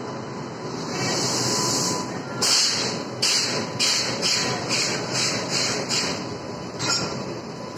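Passenger train coaches rolling slowly past. From about two and a half seconds in, the wheels give a run of sharp knocks, about three a second, over rail joints.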